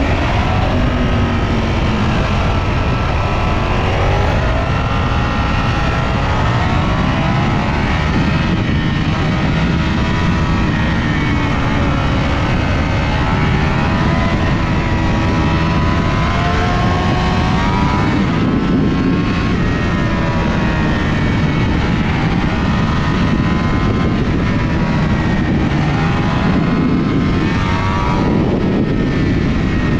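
Ducati Panigale V4S's V4 engine running on the move, its pitch rising and falling again and again as the throttle opens and closes, over a steady loud rush of noise.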